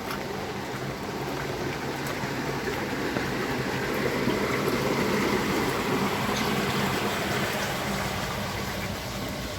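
Heavy rain falling with water running and splashing. It swells louder in the middle and eases off again, over a steady low hum.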